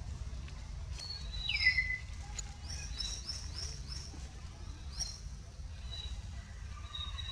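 Forest birds chirping: a louder whistle sliding down in pitch about a second and a half in, then a quick run of about five repeated chirps, over a steady low rumble.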